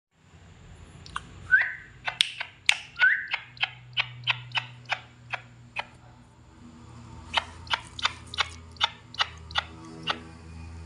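Bird of prey calling: two runs of sharp, short calls, a few a second, with a low steady hum underneath.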